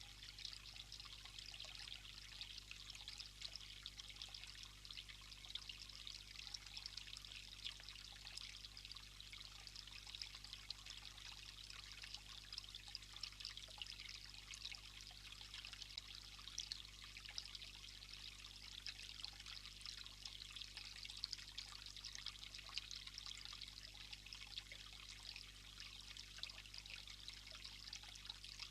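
Faint, steady rush of running water with a fine crackle in it, over a low steady hum.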